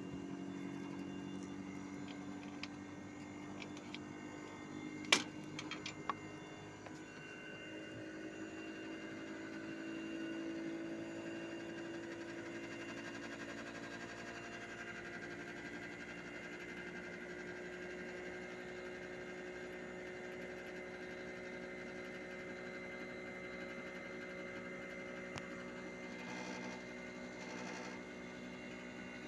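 Hitachi 1-ton split air conditioner's outdoor unit running with a steady humming whine whose pitch slowly rises, a sign of the compressor speeding up. A sharp click sounds about five seconds in.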